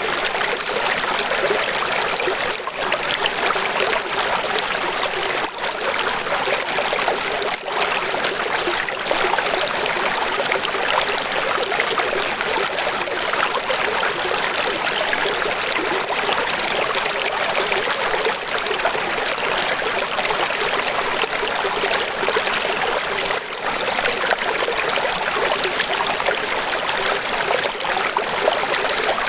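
Running water flowing steadily, a bright even hiss with no deep rumble and no breaks.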